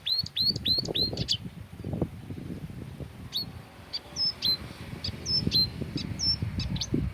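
Songbirds chirping: a quick run of about five sharp, hooked chirps in the first second and a half, then scattered single chirps, over a low rumbling noise.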